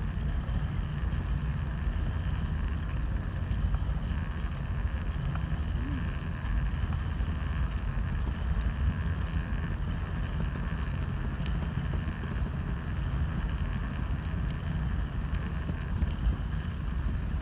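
Steady low rumble of a motor vehicle, engine and road noise with no distinct events.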